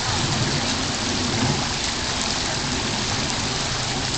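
Steady, even rushing of heavy rain and floodwater running along a flooded street.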